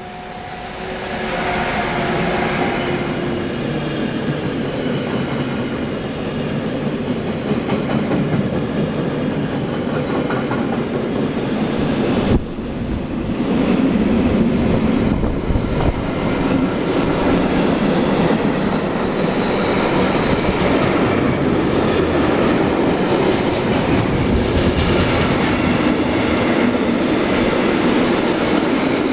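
Freight train passing close by. An electric locomotive comes up with a humming tone as the sound swells over the first two seconds. Then a long string of wagons rolls by with steady, loud wheel-on-rail rumble.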